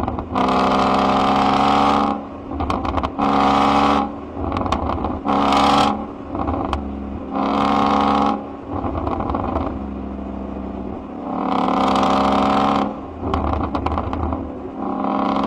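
Ford Mustang engine and exhaust revved in repeated blips, each held for one to two seconds, about six times. Between the blips the engine drops back with sharp popping from the exhaust.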